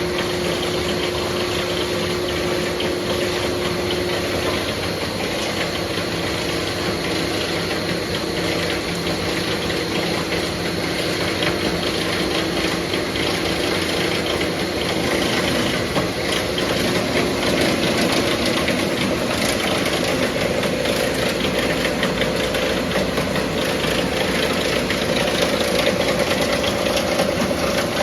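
Factory production-line machinery running steadily: a continuous mechanical drone with several constant hum tones over a dense hiss.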